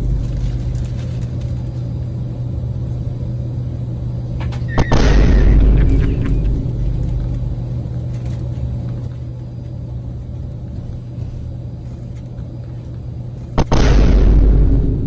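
Two deep booms, about five seconds in and again near the end, each striking suddenly and fading into a long low rumble, over a steady low hum.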